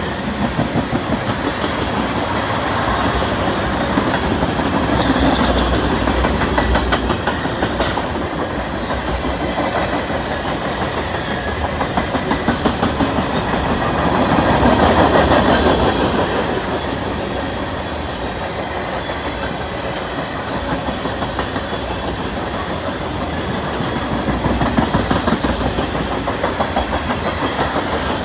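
Freight cars of a CN freight train rolling past, wheels clicking steadily over rail joints with a continuous rumble that swells and eases as the cars go by.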